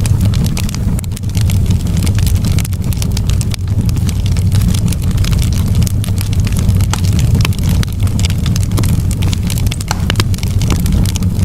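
Campfire burning: frequent sharp crackles and pops of burning wood over a steady low rumble.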